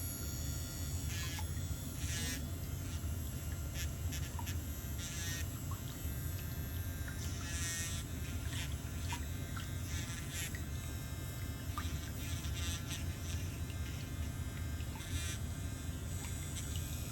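Electric nail drill buzzing steadily, with short higher-pitched grinding bursts as the bit works on a thickened, fungus-affected toenail.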